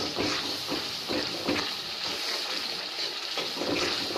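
Onion, garlic and ground-spice paste sizzling in hot oil in a kadai while it is fried down, with a metal spatula scraping the pan in a run of short strokes as it is stirred.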